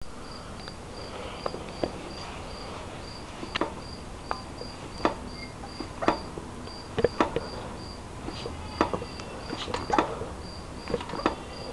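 Sharp irregular clacks, some in quick pairs, from a Fox DHX 3.0 rear shock topping out as it rebounds to full extension: the odd knock the owner suspects is the extension stop. A cricket chirps steadily throughout, about three chirps a second.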